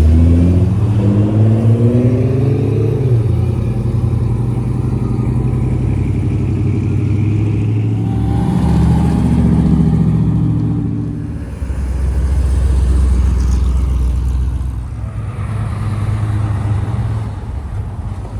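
Classic car engines rumbling as the cars drive past and pull away, one revving up with a rising pitch over the first few seconds and another swelling louder about halfway through.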